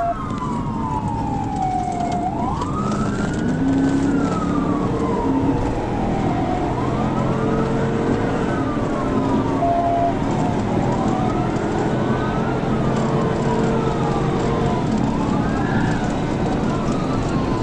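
Police cruiser siren in a slow wail, rising and falling about every four seconds, over steady road and engine noise.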